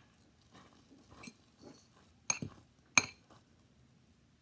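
A metal utensil clinking against a dish of microwaved eggs: a few faint taps, then two sharp, ringing clinks about two and three seconds in.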